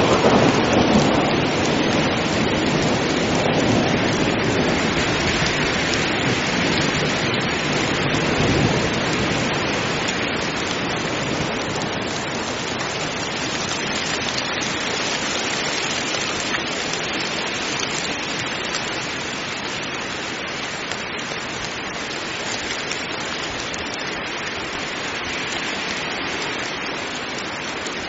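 Steady heavy rain, with a low rumble of thunder dying away over the first several seconds; the rain then eases slightly.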